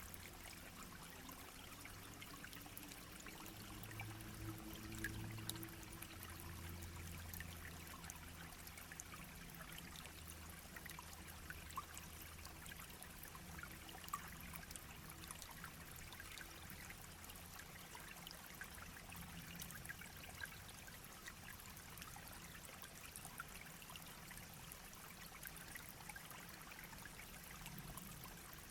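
A shallow brook babbling and trickling over stones, steady and soft, with small splashes and drips through it. A faint low hum runs under the water for about the first half.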